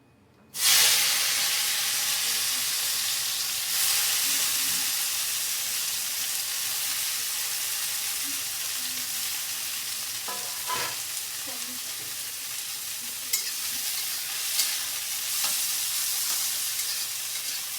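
Vegetables tipped into hot oil in a pan, sizzling loudly all at once about half a second in, then frying steadily with the hiss slowly easing. A few clicks of a spoon against the pan sound as it is stirred.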